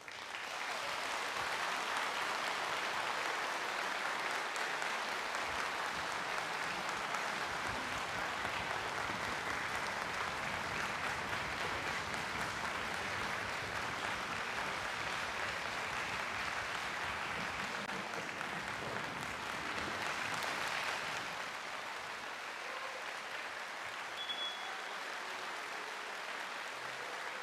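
Audience applause breaking out at once after the end of a symphony, a dense steady clapping that eases off somewhat about two-thirds of the way through and carries on.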